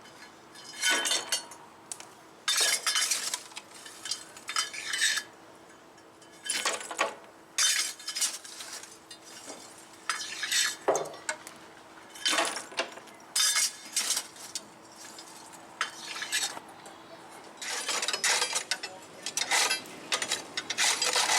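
Irregular bursts of metal-on-metal clinking and clattering, over a faint steady hum.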